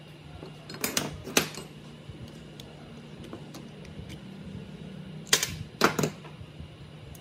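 Four sharp knocks, in two pairs about half a second apart and some four seconds between the pairs, over a steady low hum.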